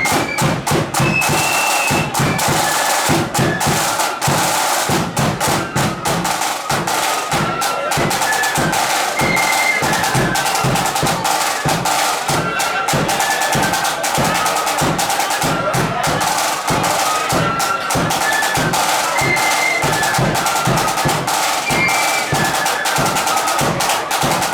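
Marching flute band playing a tune: flutes carrying the melody over snare and bass drums keeping a steady march beat.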